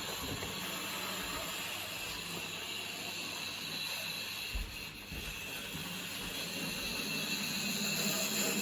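Model railway locomotive running around the track: a steady electric-motor and wheel-on-rail noise with a thin high whine. It dips briefly near the middle and grows gradually louder towards the end.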